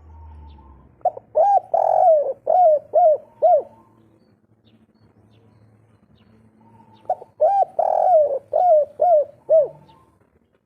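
Spotted dove (derkuku) cooing in the 'kuk 3' style: two song phrases a few seconds apart, each a run of six arched coo notes with a long one near the start, ending in three short 'kuk' notes. It is a male in full breeding condition.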